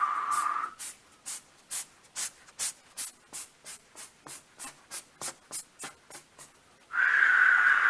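Short hissing puffs repeated about three times a second, growing fainter. They are framed by a loud, drawn-out raspy tone that stops just under a second in and returns near the end.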